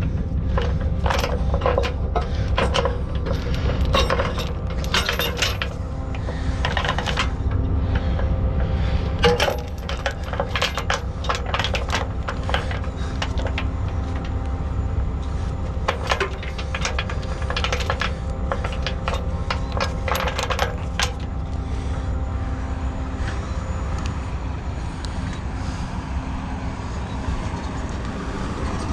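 Repeated metallic clinks and clanks, some ringing briefly, over a heavy truck's diesel engine running steadily; the clanking stops about 21 seconds in.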